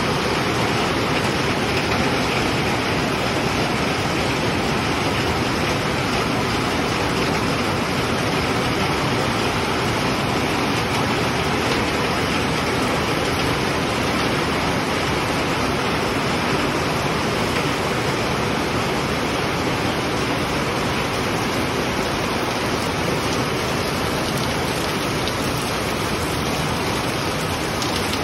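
Heavy rain pouring down in a steady downpour, an even rushing hiss with no breaks.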